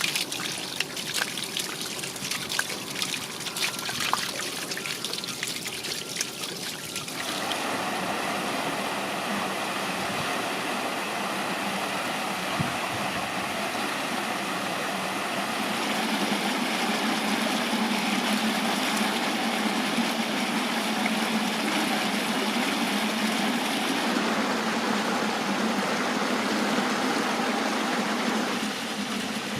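Water trickling and running down the cascades and channels of terraced garden water features, spattery at first. About seven seconds in it changes abruptly to a fuller, steadier rush of flowing water.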